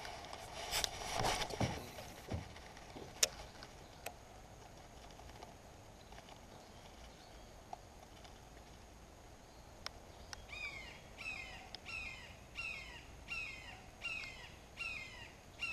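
A bird calling a run of repeated short, harsh, downward-sliding notes, a little under two a second, starting about ten seconds in. Earlier there is a brief rustle and two sharp clicks.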